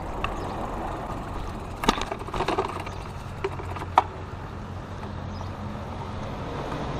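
Outdoor road noise from a moving bicycle with a car running close by: a steady low rumble and hum, broken by a few sharp clicks and knocks about two and four seconds in.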